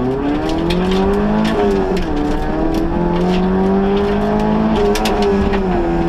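Front-wheel-drive rally car's engine heard from inside the cabin under hard acceleration: the engine note climbs, drops sharply about two seconds in at a gear change, then climbs slowly again and dips near the end. Scattered sharp ticks run through it.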